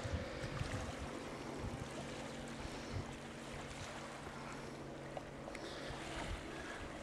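Water sloshing and splashing around a kayak being paddled, with a few soft knocks.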